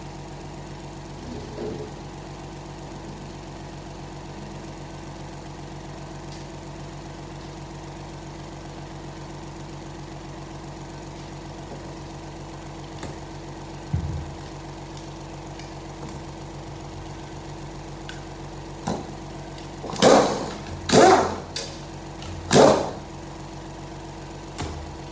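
Steady machine hum in a workshop. Near the end come three short, loud bursts of noise from work on the transmission, with a lighter knock a little earlier.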